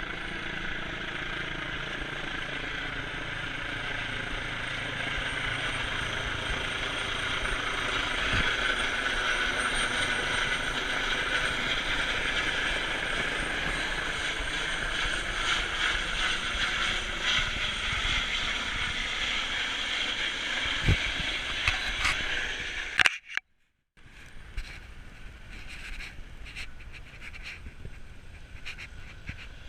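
Eurocopter EC135 twin-turbine helicopter running steadily. The sound cuts out for about a second some 23 seconds in and comes back quieter.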